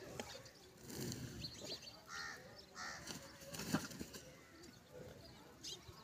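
Birds calling: two short calls a little after two seconds and near three seconds in, over faint scattered high chirping. A single sharp tap just before the four-second mark is the loudest sound.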